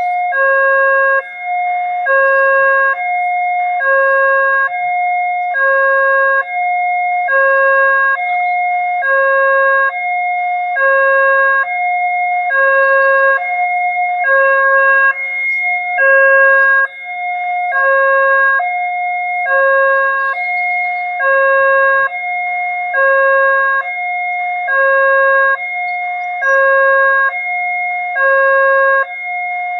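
Railway level crossing warning alarm sounding: an electronic two-tone signal alternating evenly between a lower and a higher tone, about one tone a second, warning that a train is approaching.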